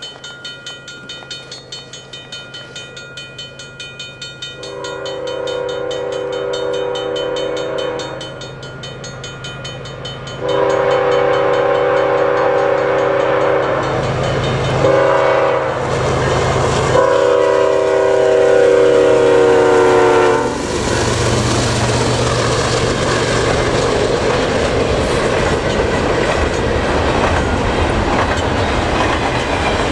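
CN freight train coming on: the diesel locomotives rumble louder, then the lead locomotive sounds its air horn in a series of long blasts with several notes at once. The horn stops about 20 seconds in, and double-stack intermodal container cars roll past with steady wheel noise and clickety-clack.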